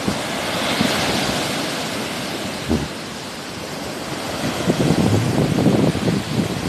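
Sea waves washing onto the shore, a hissing wash swelling about a second in, with wind buffeting the microphone as a gusty low rumble that grows stronger in the second half.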